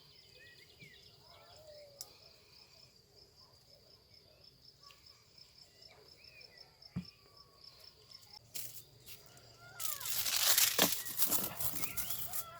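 An insect trills steadily in a rapid high pulse while birds chirp now and then. From about ten seconds in, a much louder rustling with sharp crackles comes in close by.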